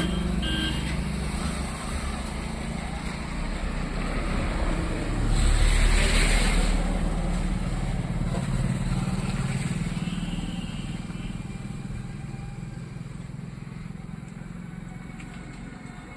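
Road traffic with a steady engine rumble. One vehicle passes close about five to seven seconds in, and the traffic sound eases off toward the end.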